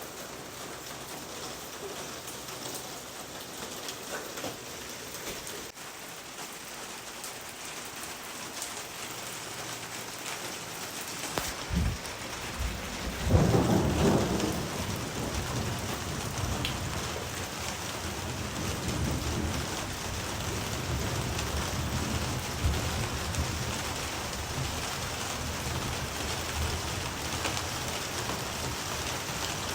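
Steady rain falling, with a thunderclap about twelve seconds in that swells into a loud low rumble and leaves a deeper rumbling under the rain afterwards.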